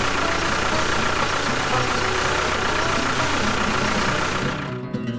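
A small vehicle's motor running steadily at a constant level. It cuts off suddenly near the end, and plucked acoustic guitar music starts.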